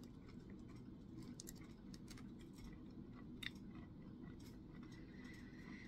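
Faint chewing of a soft, chewy granola bar, a Quaker Chewy dark chocolate chunk bar, with small mouth clicks; one sharper click comes about three and a half seconds in.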